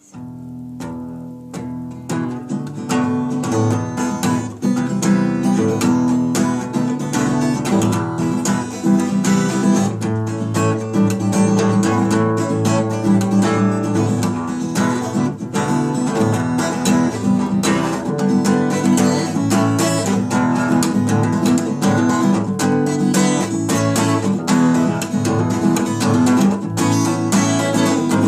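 Acoustic guitar played solo, strummed chords mixed with picked notes. It comes in softly and reaches full level within the first couple of seconds.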